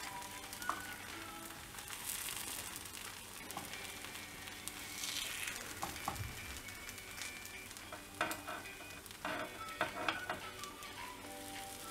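Kuzhi paniyaram sizzling and frying in a paniyaram pan as the half-cooked balls are turned with two steel spoons. Several sharp clicks of spoon on pan come near the end.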